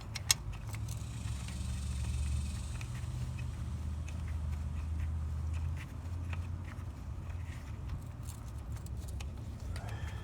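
Bolts and hand tools handled on a car's CV axle mount: one sharp metallic click right at the start, then scattered light clicks and taps, over a steady low hum.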